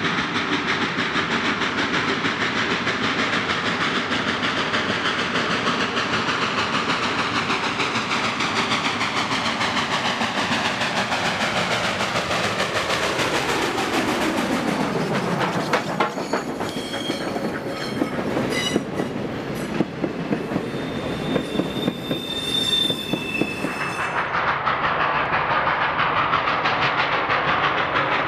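Train rolling past close by: a steady rumble and clatter of wheels on the rails, sweeping in pitch as the cars go by. From about halfway in come sharp wheel clicks and a couple of short high squeals. Near the end the sound switches suddenly to a steadier rumble.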